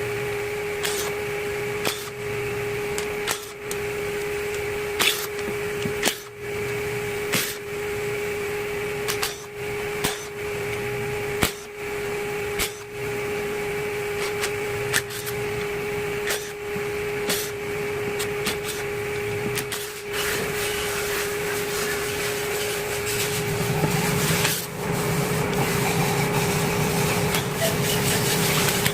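Steady machine hum in a workshop, with irregular clicks and knocks of tools or parts being handled; a lower rumble joins in for the last few seconds.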